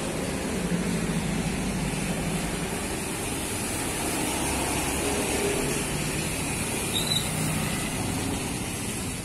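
A motor vehicle engine running steadily with a low hum, under a constant hiss of traffic noise.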